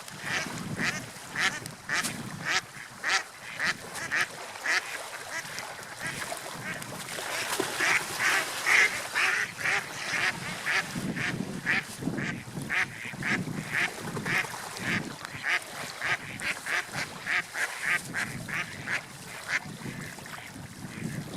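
Gulls calling over and over in short, sharp cries, about two or three a second, busiest and loudest near the middle, over the low wash of sea waves.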